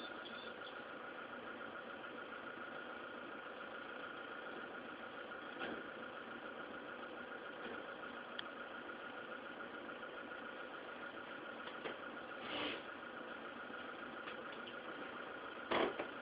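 A car engine idling steadily and faintly, with a few brief knocks or clicks near the end.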